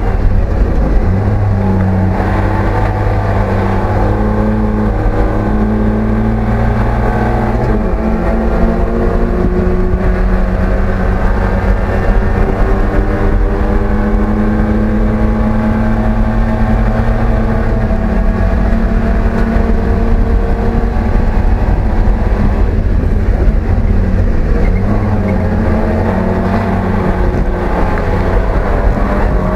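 BMW E30 race car's engine pulling hard at high revs under racing load, heard inside the cabin, with the pitch stepping at gear changes near 8 and 18 seconds in.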